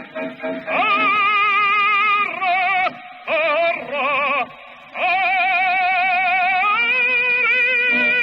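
Music: a singer holding long notes with heavy vibrato, broken by a few shorter notes in the middle, then stepping up to a higher held note near the end.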